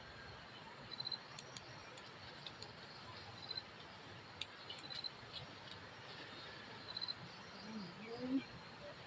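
Insect chirping outdoors: short high chirps repeated every couple of seconds over a low background hiss, with scattered faint clicks. A brief low gliding sound comes near the end.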